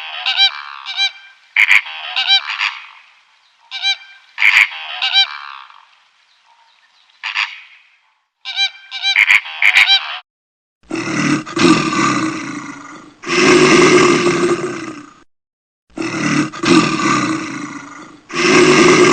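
Geese honking in a series of short, loud calls. About halfway through, a large animal takes over with four long, deep roars of about two seconds each.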